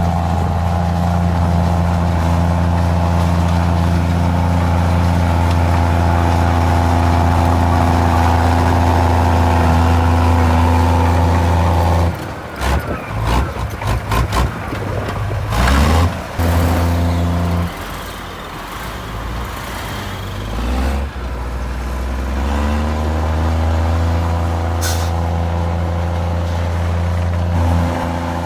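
Komatsu D53E crawler bulldozer's diesel engine running steadily under load. About halfway through, the engine note drops and wavers for several seconds among a run of knocks. It then revs back up and runs steadily again.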